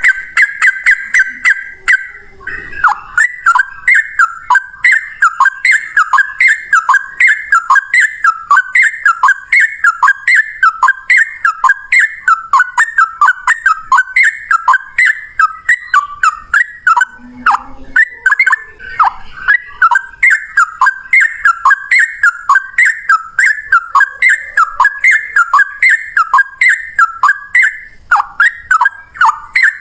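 Sooty-headed bulbul (trucukan) singing. A held whistle for the first two seconds runs into a long unbroken stream of quick, falling notes, repeated about twice a second.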